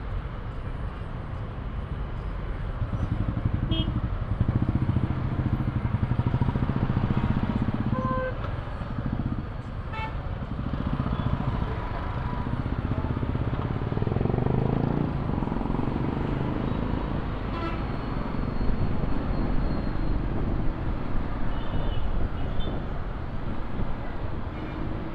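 Motorcycle engine and road noise from a moving bike in traffic, with a few short horn toots.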